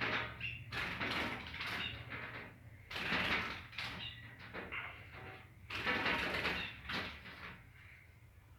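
Small bird flapping and scrabbling against a mirror, fighting its own reflection: repeated bursts of fluttering and scraping, the strongest about three and six seconds in, over a low steady hum.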